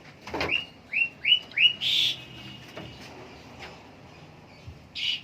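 Black-winged myna (jalak putih) calling: a quick run of short rising whistled notes, then a loud harsh rasping call, with another harsh call near the end.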